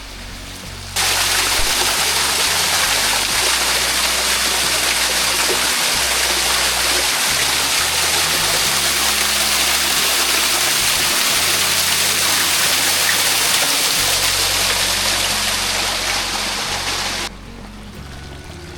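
Small seasonal waterfall splashing: a loud, steady rush of falling water that cuts in suddenly about a second in and cuts off suddenly near the end.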